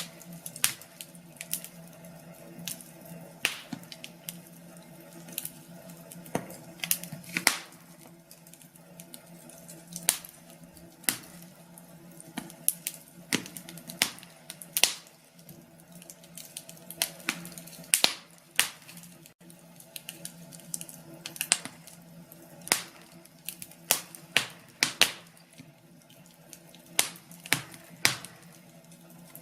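Wood fire crackling in a fireplace, with irregular sharp pops and snaps, a few each second at busy moments, over a faint steady low hum.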